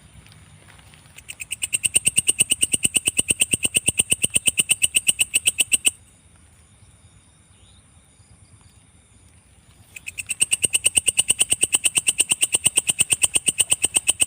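Belalang kecek katydid calling: two runs of rapid, even clicking pulses, about ten a second, each lasting roughly five seconds with a pause between, over a steady high insect drone.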